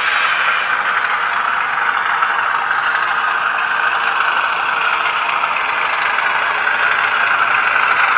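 HO-scale model freight train running on the layout, its DCC sound decoder playing a steady locomotive engine sound through the locomotive's small speaker.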